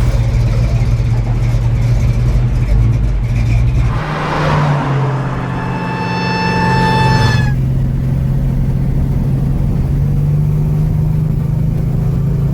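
Muscle car engine running with a steady low rumble that changes pitch slightly about four seconds in. Over it comes a burst of noise and then a high, steady whine with overtones that lasts about three seconds.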